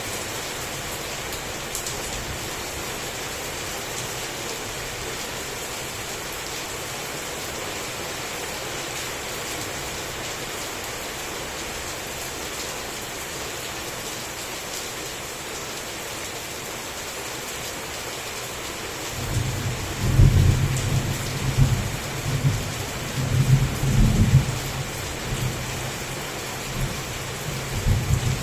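Heavy rain falling steadily, with a roll of thunder coming in about two-thirds of the way through and rumbling on in several low surges, loudest just after it begins.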